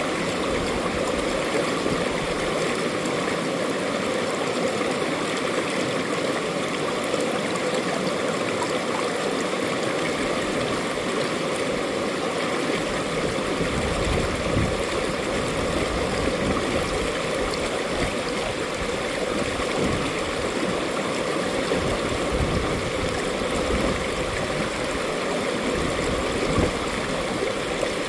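Mountain valley stream rushing and burbling over rocks, a steady continuous flow of water.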